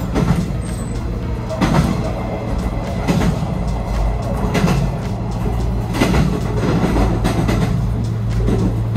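Diesel railcar running at speed, heard from inside the car: a steady low hum with a clack from the wheels over a rail joint about every one and a half seconds.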